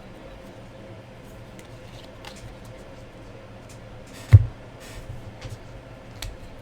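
A steady low hum with a few faint ticks, and one sharp knock about four seconds in.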